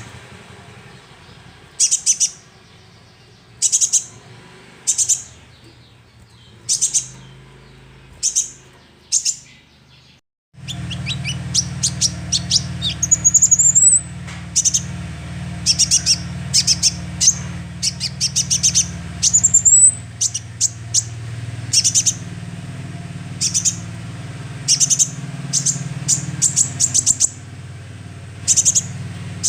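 Young sunbird giving sharp, high chirps, spaced about a second apart at first, then coming thicker with two rising twittering phrases. A steady low hum sets in about ten seconds in.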